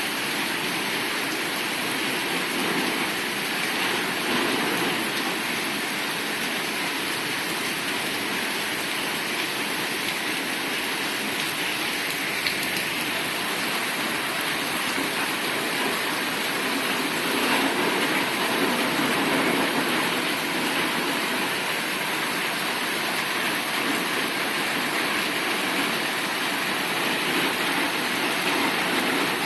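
Heavy rain falling steadily, an even continuous hiss with no break.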